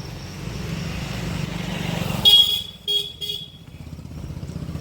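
A vehicle horn honks once, loud and fairly long, then twice more in short toots, over the steady rumble of a running vehicle engine.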